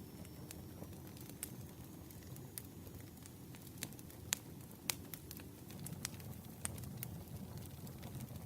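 Campfire burning: a steady low rumble of flames with scattered sharp crackles and pops from the burning wood, the loudest snaps near the middle. A faint thin high whistle sounds in the first few seconds.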